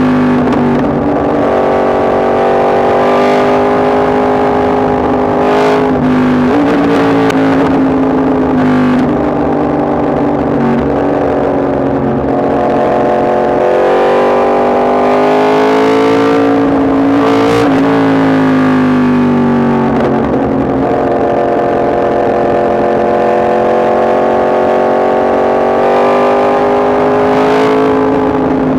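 Yamaha MT-10 SP's crossplane inline-four engine running under way. The note holds, climbs and eases with the throttle, and drops abruptly twice, at about six and a half seconds and about seventeen seconds in.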